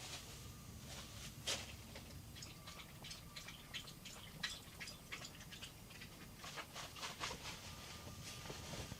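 An irregular scatter of light clicks and taps, a few louder than the rest, over a low steady background hum.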